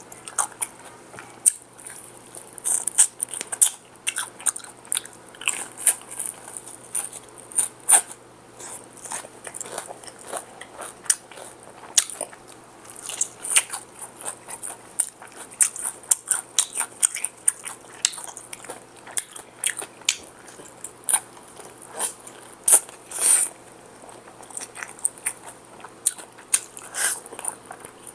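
Close-up eating of crispy fried chicken: crunchy bites of the breaded skin and chewing, in irregular crackles throughout.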